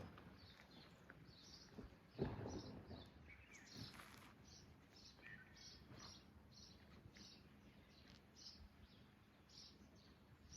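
Faint bird chirping, short high calls repeated about twice a second, with a soft thud about two seconds in.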